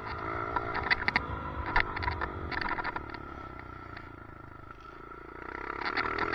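Small motorbike engine revving up and down as it rides the track, easing off and dropping in pitch a little after halfway, then picking up again near the end. Frequent sharp clicks and rattles run over it, the weird noise from a loose helmet chin camera mount.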